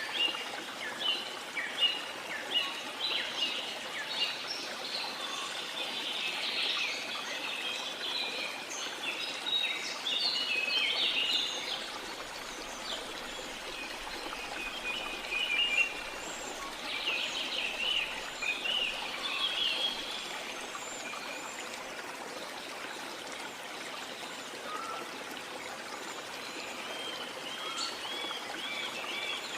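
Steady rush of falling water with many birds chirping and singing over it. The birdsong is busiest for the first two-thirds, then thins out, and a quick run of repeated chirps comes near the end.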